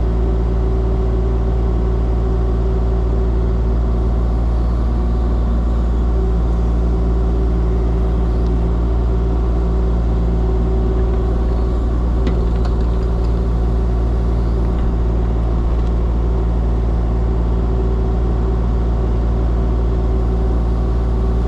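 Diesel engine of a compact earthmoving machine running steadily at an even speed, with a few faint knocks about halfway through.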